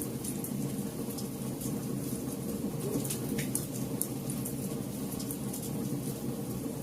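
Campfire burning, with a steady low rush of flames and frequent sharp crackles and pops from the wood.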